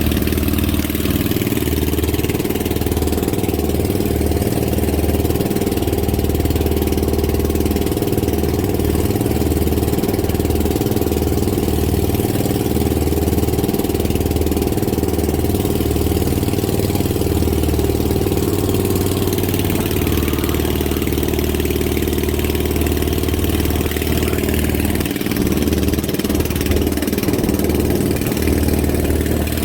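Motorboat engine running steadily at a constant speed, with a hiss of wind and water over it.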